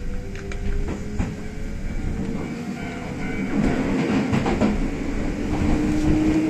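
Kintetsu express electric train running, heard from inside the front car. The traction motor whine slowly rises in pitch as the train picks up speed, over a steady running rumble with a few sharp clicks from the wheels.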